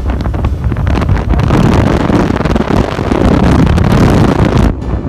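Loud wind buffeting on the microphone during a motorcycle ride, a dense rumble and rush of air. The upper hiss drops away sharply near the end.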